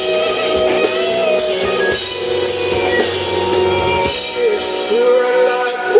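Live rock band playing: guitar and drum kit with sustained chords, and a singing voice coming in over them in the second half.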